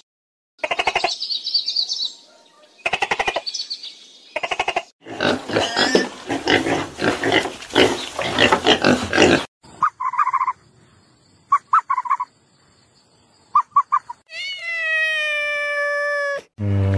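A string of different animal calls, each cut off cleanly before the next. First come three short calls in the first five seconds, then a dense stretch of rapid calls lasting about four seconds, then three brief high chirps, and near the end one long call with a pitch that falls slowly.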